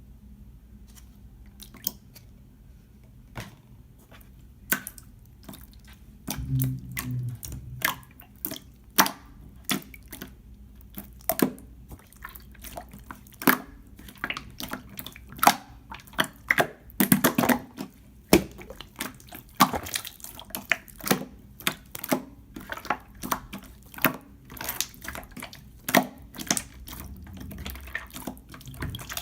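Clear slime being squeezed and worked by hand, making irregular wet clicks and pops, often several a second.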